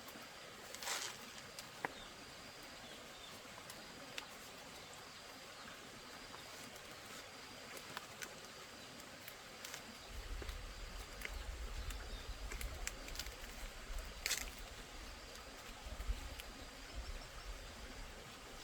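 Faint outdoor ambience with scattered sharp clicks and light knocks; a low rumble sets in about ten seconds in.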